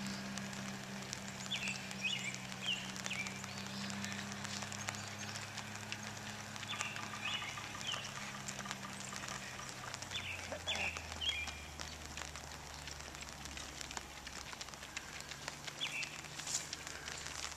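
A songbird repeating a short chirping phrase every few seconds over a steady low engine hum, which drops in pitch about ten seconds in. Near the end, runners' footsteps patter on the pavement.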